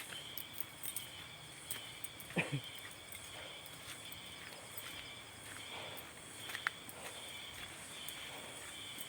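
Forest insects droning steadily at a few fixed high pitches, with scattered footsteps and knocks on a muddy trail.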